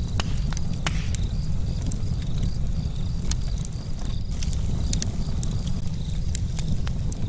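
Charcoal campfire crackling, with scattered sharp pops and ticks over a steady low rumble. Faint high chirping repeats in the background.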